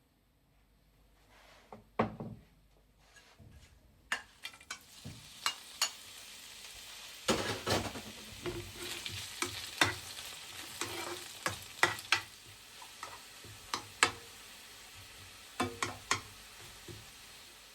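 Food frying in a pan, with a steady sizzle from about four seconds in and a cooking utensil stirring and knocking against the pan many times at an uneven pace; one louder knock comes about two seconds in.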